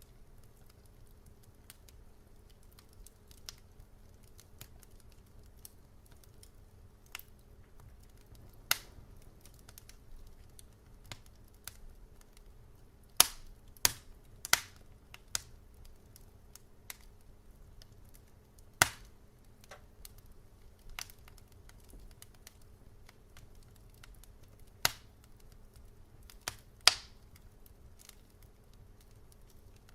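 Wood fire crackling in a fireplace: scattered sharp pops and snaps, a handful of them much louder, over a faint steady low rumble.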